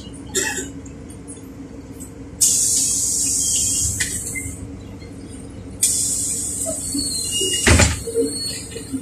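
Pneumatic doors of a LiAZ 4292 city bus working at a stop: two sudden hisses of compressed air, each about two seconds long. The second ends in a heavy thud as the doors shut, over the bus engine's steady low hum.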